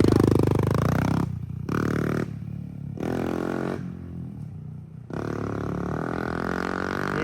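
Honda CRF110 pit bike's small single-cylinder engine barking through a freshly fitted Yoshimura aftermarket exhaust as it is ridden: a hard rev rising in pitch over the first second, the throttle snapped shut, two short blips, then steadier running from about five seconds in.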